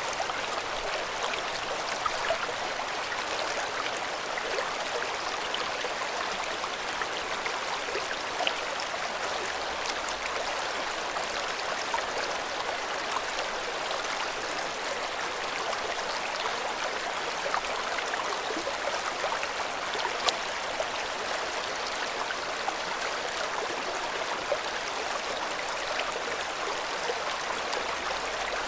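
River water flowing steadily, a constant rush with small splashes and droplet ticks scattered through it.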